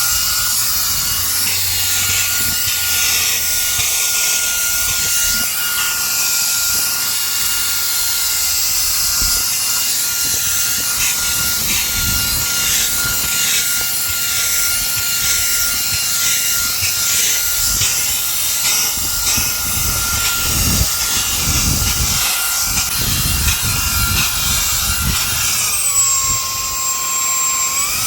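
REIKIYA HV-C11 mini cordless handheld vacuum running on its highest suction setting: a steady high motor whine with rushing air, with irregular low scrubbing and knocking as the nozzle works over car carpet. Near the end the whine drops in pitch for about two seconds and then comes back up.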